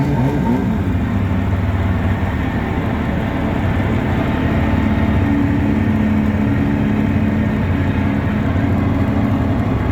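Twin two-stroke jet outboard motors running steadily under way, pushing the jon boat along.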